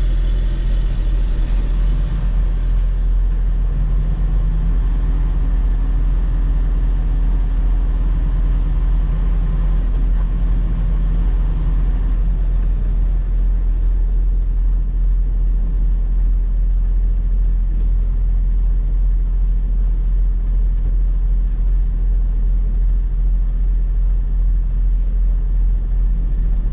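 Semi truck's diesel engine running, heard from inside the cab as a steady low drone.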